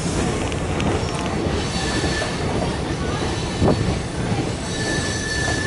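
DEMU train running, heard from on board: a steady rumble of wheels on the track with thin, high wheel squeal, and one sharp knock a little past halfway.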